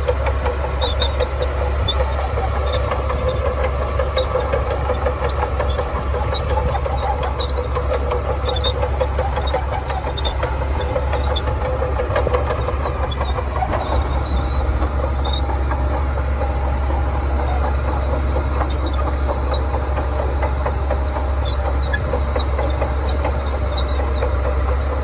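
Shantui bulldozer's heavy diesel engine running steadily under load, with a deep low hum and faint high ticks scattered through it.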